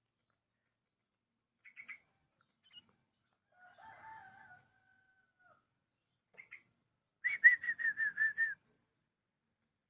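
Sooty-headed bulbul calling: a few short separate chirps, then a rapid run of about nine repeated notes lasting over a second, the loudest part. A lower drawn-out call comes around four seconds in.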